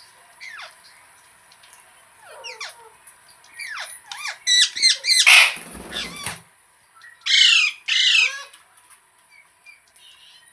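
Pet parrot squawking in a string of short, downward-sliding calls, building to a loud, harsh screech about five seconds in, then two more loud squawks.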